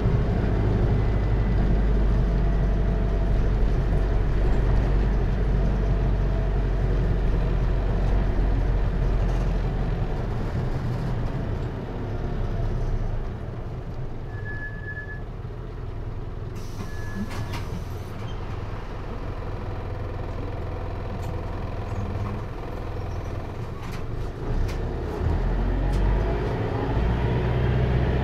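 Hino Liesse minibus's J05C diesel engine and automatic driveline heard from inside the cabin. A steady low hum under way eases off about halfway to a quieter, lower running, then picks up again near the end. Two short high beeps sound midway.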